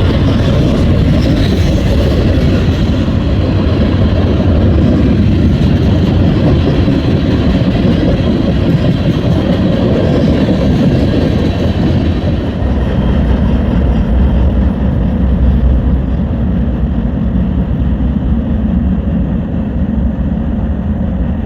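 Norfolk Southern eastbound freight train 16Z passing close by: a loud, steady rumble of cars rolling over the rails. About halfway through, the higher hiss fades and a deep low rumble remains.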